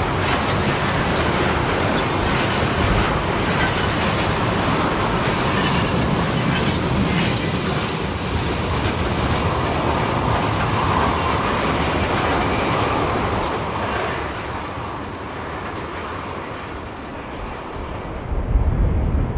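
Freight train wagons rolling past at speed with wheel clatter on the rails. The noise eases near the end as the train passes, then wind gusts buffet the microphone.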